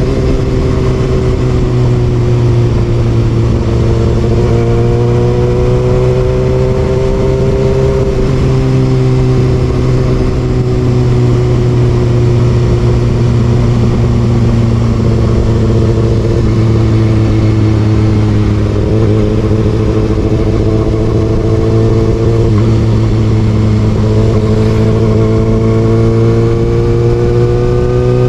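Kawasaki ZX6R inline-four engine with an Austin Racing exhaust running under way. Its note rises and falls slowly with the throttle, with a few sudden steps in pitch. A steady low rumble runs underneath.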